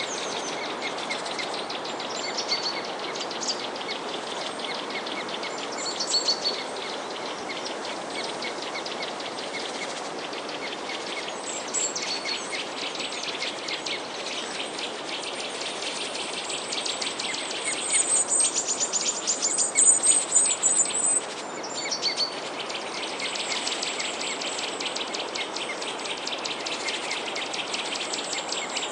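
Small songbirds chirping and twittering over a dense, fast insect trill and a steady background hiss, with a louder flurry of chirps about two-thirds of the way through.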